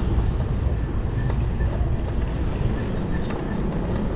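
Wind rushing over the microphone of a moving electric bicycle, a steady low rumble with road and traffic noise mixed in.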